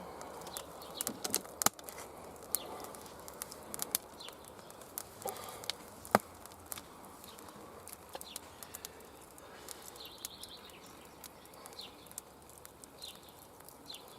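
Wood campfire crackling, with irregular sharp snaps and pops. Short bird chirps come in during the second half.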